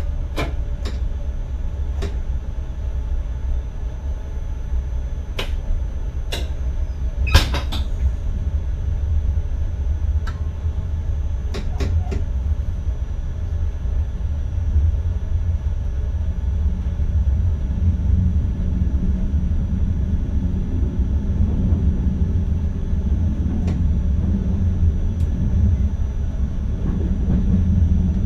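Inside the cab of an NS ICM electric multiple unit running along the line: a steady low rumble with a faint high whine over it, broken by scattered clicks and knocks, the sharpest about seven seconds in. The rumble grows a little heavier past the halfway point.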